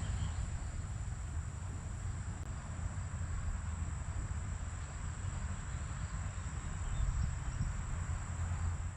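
Wind buffeting the microphone with a low rumble over a steady hiss of rain, with a thin, steady high-pitched whine above it.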